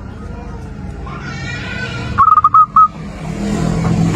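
Zebra dove (perkutut) cooing once about two seconds in: a short trill followed by three clipped whistled notes. A low background hum grows louder near the end.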